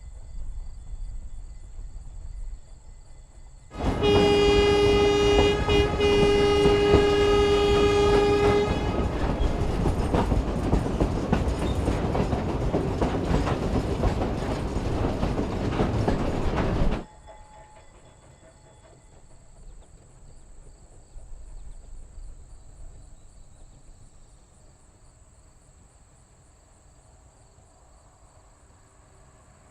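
A steam locomotive's chime whistle blows a held chord of several tones for about five seconds, with a brief break partway through. A loud rushing train noise carries on for about eight more seconds and then cuts off suddenly, leaving quiet.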